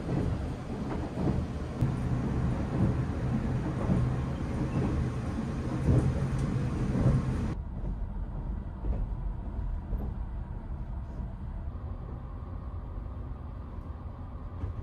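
Running noise of a moving sleeper train heard inside the carriage: a steady low rumble and hum with scattered knocks. About halfway through, the higher hiss cuts away suddenly and the sound turns duller.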